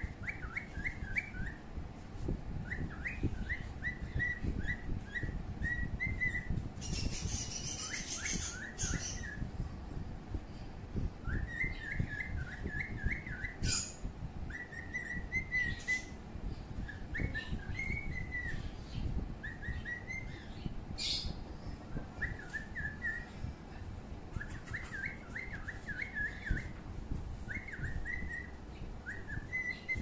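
A bird whistling and chirping in short, quick, warbling phrases, repeated throughout, with a brief higher chirping about a third of the way in and a steady low rumble underneath.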